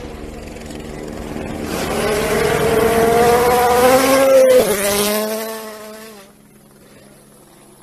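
A World Rally car's turbocharged four-cylinder engine at full throttle, approaching and passing. Its pitch climbs as it grows louder, drops sharply about four and a half seconds in as it goes by, and the sound fades away a couple of seconds later.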